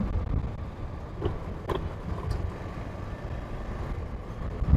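Traffic noise heard from a moving motorcycle on a city road: a steady low rumble of engine and road noise.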